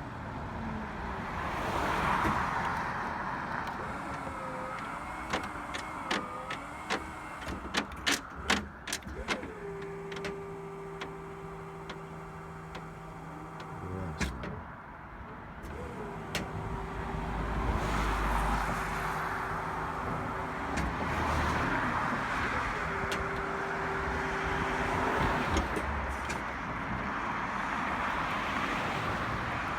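Bucket truck's battery-powered hydraulic pump motor whining in three spells of a few seconds each, cutting in and out as the bucket is lowered slowly; the owner puts the stalling down to a drained battery, with the inverter at low input voltage. A few sharp clicks come before it, over a steady rushing background.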